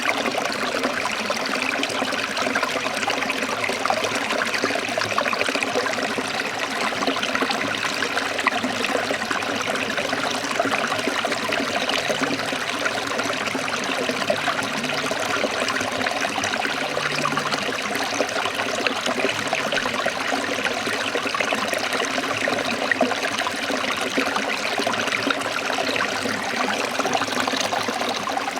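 Forest stream trickling and splashing, a steady rush of running water with no pauses.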